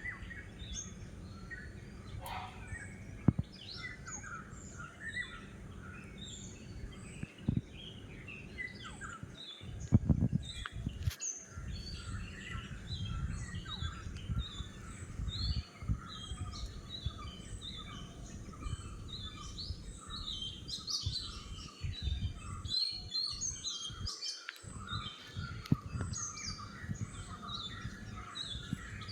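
Many small birds chirping and calling over and over, with a low background rumble and a few sharp knocks.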